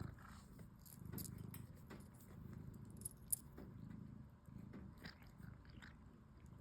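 Domestic cat purring, a faint, low, pulsing rumble, with a few light clicks over it.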